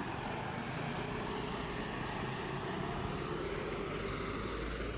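Heavy vehicle engine running steadily, a low even rumble.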